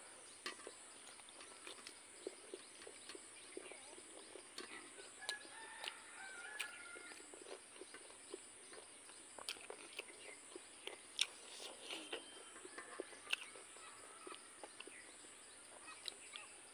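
Quiet eating sounds: soft, scattered clicks of biting and chewing pork blood sausage and rice. A chicken clucks briefly a few times in the background.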